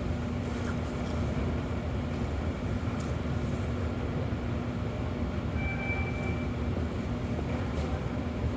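Subway train running, heard from inside the car: steady low noise with a constant hum, and a short high tone about six seconds in.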